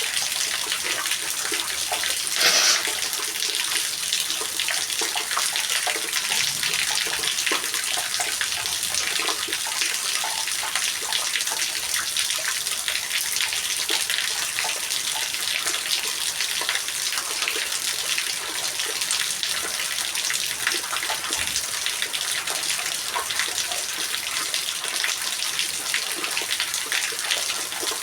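Steady rain falling: an even hiss with many small drop ticks, and one brief louder splash about two and a half seconds in.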